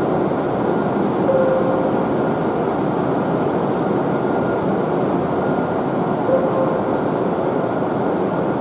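E7-series Joetsu Shinkansen train moving slowly along the platform: a steady, loud rush of running and motor noise with no pauses.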